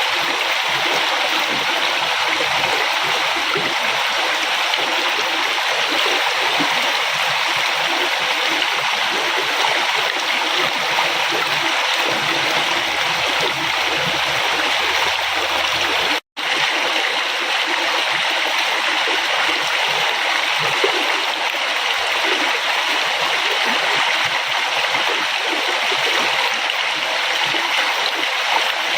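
River water flowing steadily, a constant rushing and gurgling. About halfway through, the sound cuts out for a split second and then resumes.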